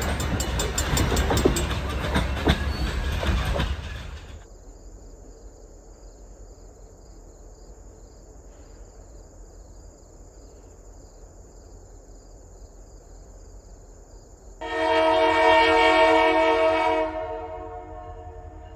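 Loaded freight cars rolling past close by, their wheels clacking over rail joints, for about four seconds. A quieter low rumble with a faint steady high whine follows, and about fifteen seconds in a diesel locomotive's horn sounds one chord for about two and a half seconds.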